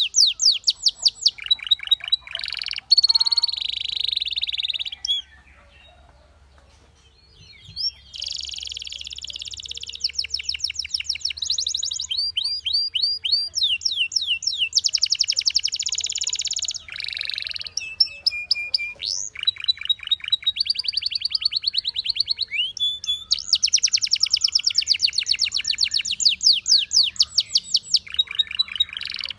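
Canary singing: fast trills of rapidly repeated notes, high and rolling, in phrases that change from one tour to the next. It breaks off for about two seconds a quarter of the way in, then carries on.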